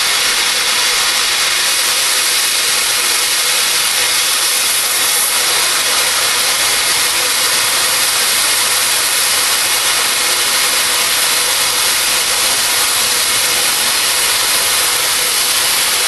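Oxy-fuel cutting torch running with a steady, even hiss as it flame-cuts through steel railroad rail.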